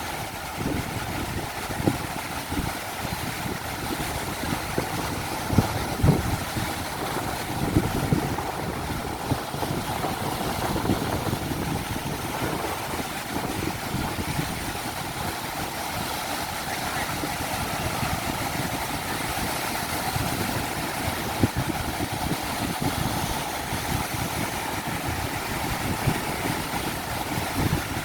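Strong wind buffeting the microphone in irregular low gusts over a steady wash of ocean surf.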